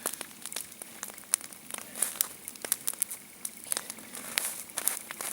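Wood fire crackling: irregular sharp pops and snaps from burning logs.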